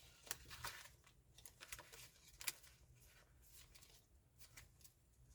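Faint rustling and soft ticks of paper pages being handled and turned in a handmade junk journal of vintage papers.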